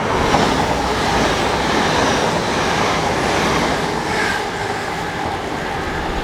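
Passenger train passing through a station on the near track, a steady loud rush of wheel and rail noise.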